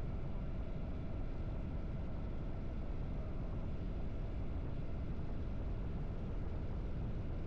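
Harley-Davidson V-twin motorcycle engine running steadily while riding, a low, even engine sound with no changes in pace.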